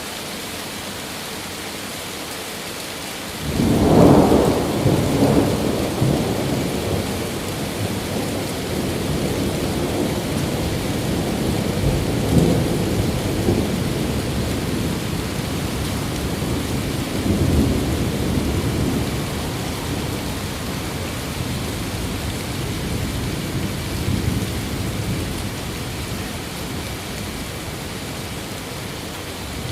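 Steady rain with a thunderclap about three and a half seconds in, followed by a long rolling rumble that swells again several times before fading back into the rain.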